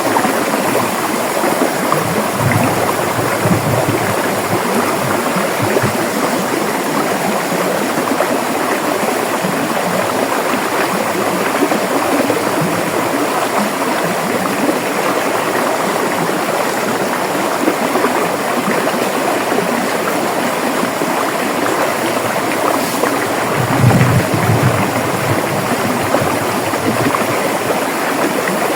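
River water rushing and gurgling over rocks in a steady, even flow, with a few deeper swells of low water sound about two seconds in and again near the end.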